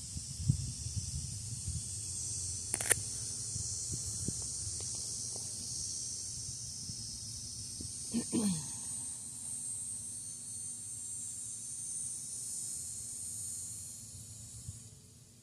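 A steady, high-pitched insect chorus that fades away near the end, with a sharp click about three seconds in and a brief low call that falls in pitch about eight seconds in.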